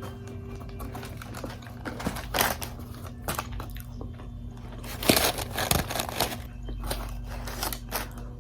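Close-miked eating of Wingstop food: irregular crunchy bites and chewing, the loudest crunch about five seconds in, over a faint steady electrical hum.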